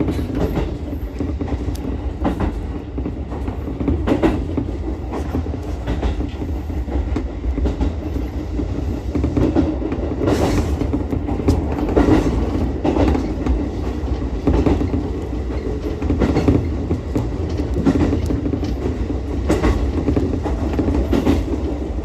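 Ichibata Electric Railway 7000-series electric railcar running along the line with a steady low rumble, its wheels clacking over rail joints every second or two.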